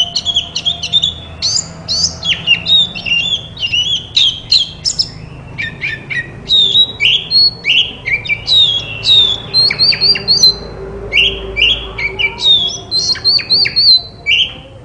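Oriental magpie-robin singing a fast, varied song of clear whistles, chattering notes and steeply falling sweeps, almost without a pause.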